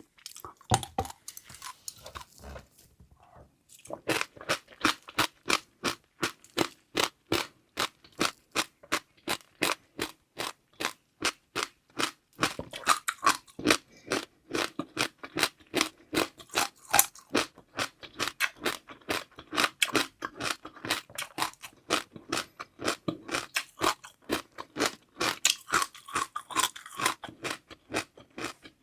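Close-miked eating of crunchy seaweed pearls and jelly: a few soft sounds, then from about four seconds in a steady run of sharp crunches, about three a second.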